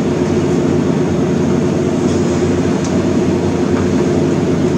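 A steady, unchanging low mechanical hum with several held tones, as from a running machine or air handler.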